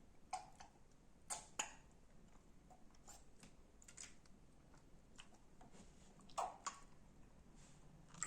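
Slime being squeezed and poked by hand, giving faint, scattered sharp clicks and pops from air pockets. The louder pops come about a second and a half in and again near six and a half seconds.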